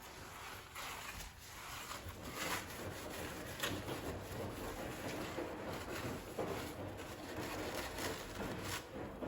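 Household handling sounds: soft rubbing with a few light knocks and clicks scattered through, the kind made when wiping and moving things about in a kitchen.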